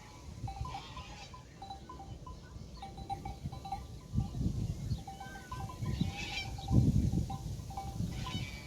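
A grazing flock with small livestock bells clinking irregularly and animals bleating now and then, with a few low rumbles.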